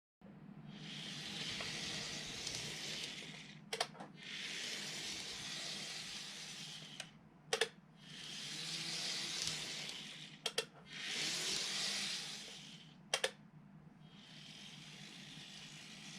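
N-gauge model train running on track: a high hissing run that swells and fades about every three seconds, with a sharp click or double click in each lull.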